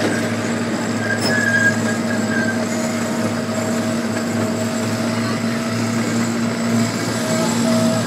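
Small zoo train running steadily, heard from aboard: an even engine hum over a constant rumble.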